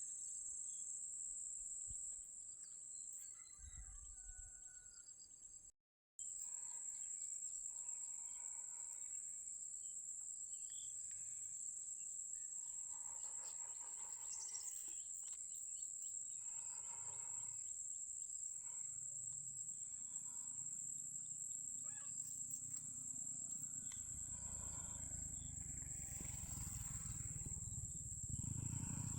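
Insects chirring in a steady high-pitched drone, with faint short calls and rustles, and a low rumble coming in over the last ten seconds or so.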